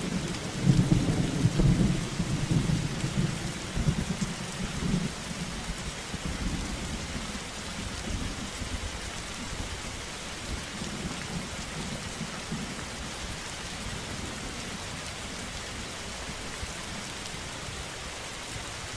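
Heavy rain falling steadily. A deep rumble swells about a second in and fades away over the next several seconds.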